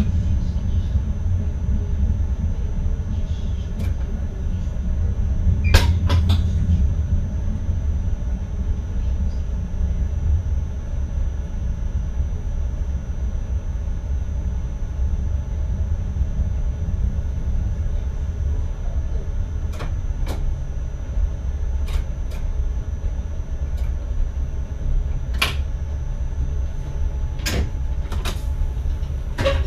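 Driver's cab of an NS ICM electric intercity train: a steady low rumble, with a few sharp clicks and knocks scattered through it.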